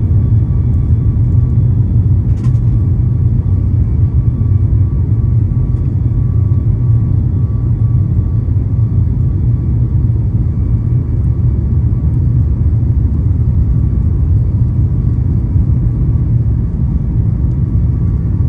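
Boeing 737 MAX 8 cabin noise: a steady, loud low rumble from the CFM LEAP-1B engines and the airflow, with a faint steady engine whine over it. There is a brief click about two and a half seconds in.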